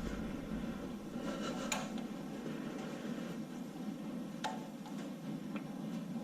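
A few light metallic clicks and taps of parts being handled, over a steady low hum of background noise.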